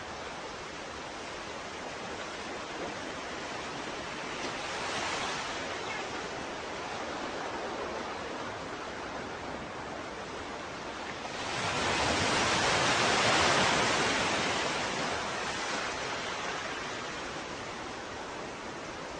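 Ocean waves washing on a shore, a steady hiss of surf with one small wave breaking about five seconds in and a larger one building and breaking around the middle, then fading.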